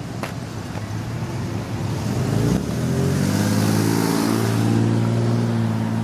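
Car engine running, its pitch rising and shifting about two seconds in and then holding steady.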